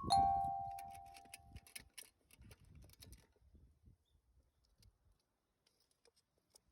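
A bell-like tone rings out once and fades away over about two seconds, followed by a few faint scattered ticks.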